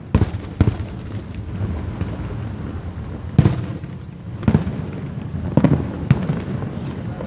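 Aerial fireworks bursting: about six sharp booms at uneven intervals, each trailing off in a low rumble, with a steady crackling rumble between them.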